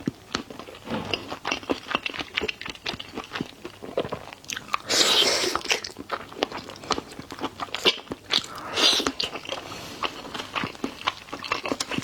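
Close-miked eating of seafood: wet chewing and mouth clicks, with two louder, noisier bursts about five and nine seconds in.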